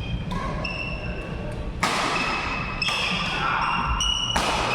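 Badminton rally: four sharp racket hits on the shuttlecock, about one to one and a half seconds apart, with high squeaks of shoes on the court floor between them.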